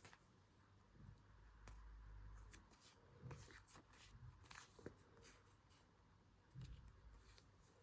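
Faint, scattered light taps and paper rustles of stationery being handled on a desk while journaling in a planner.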